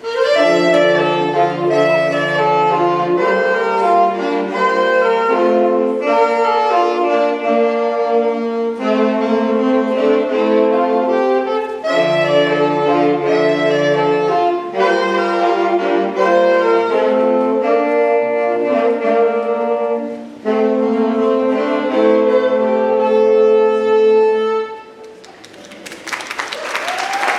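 Wind ensemble playing a slow passage of long held chords that change every second or two, with saxophones and brass to the fore. The music stops about 25 seconds in, and applause begins just after.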